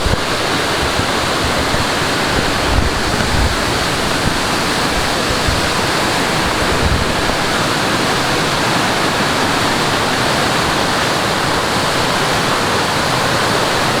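Mountain stream rushing over rocks in a steady, loud cascade, a continuous even roar of water.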